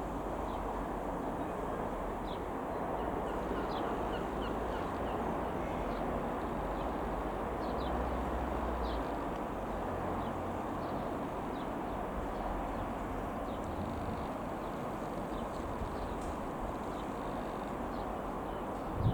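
Outdoor ambience: a steady, even rumble with scattered short high bird chirps over it.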